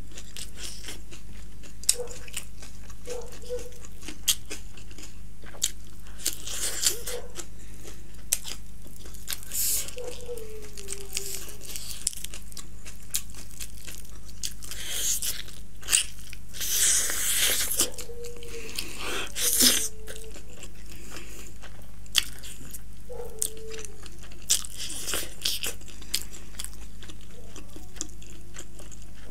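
Close-miked eating sounds: chewing and biting into spicy fried chicken, with many wet mouth clicks and smacks and a few louder, noisier bites and chews past the middle. Short hummed 'mm' sounds come now and then over a steady low hum.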